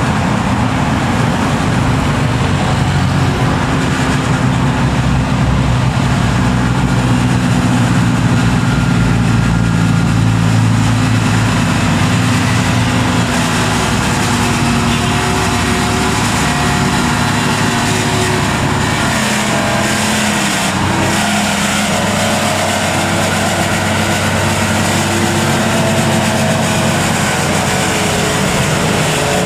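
Heavy truck engine running steadily, with the sound changing about halfway through as the low engine note fades and higher shifting tones take over.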